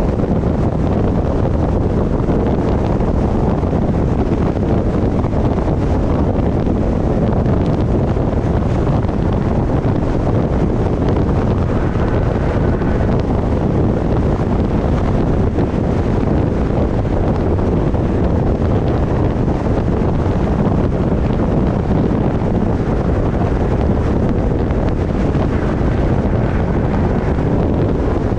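Steady loud wind rushing over the microphone of a car-roof-mounted action camera while driving, with the car's road noise beneath.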